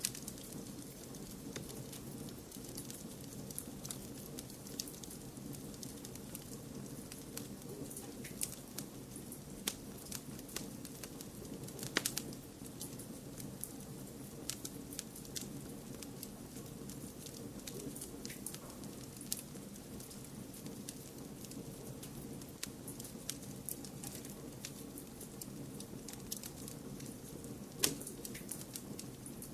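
Wood fire crackling: scattered sharp pops and snaps over a steady low rushing noise, with louder pops about twelve seconds in and again near the end.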